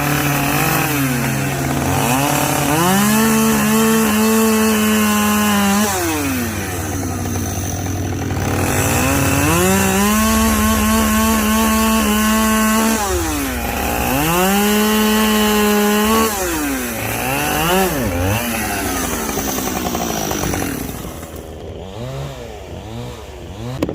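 Two-stroke chainsaw bucking firewood rounds: it revs up to full throttle and holds there through each cut of a few seconds, then drops back, several times over. Toward the end it gives a few short revs and falls away, bogging as the tank runs out of fuel.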